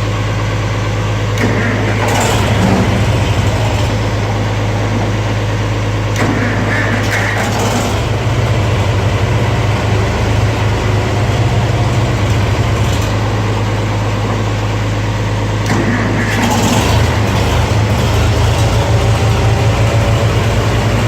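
Farmall 450 tractor engine on a cold start after three weeks unused, firing and running, its note changing and becoming more pulsing about 8 seconds in and again about 16 seconds in.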